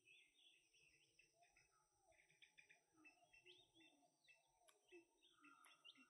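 Faint wild birdsong: many short, quick chirps and twitters overlapping, with a steady thin high-pitched whine underneath.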